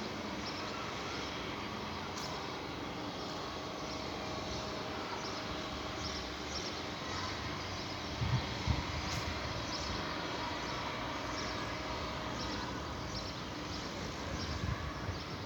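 Outdoor ambience: a steady noisy rumble under short, high chirps that repeat every half second or so, from a bird or insect. Low bumps break in twice, about halfway through and near the end.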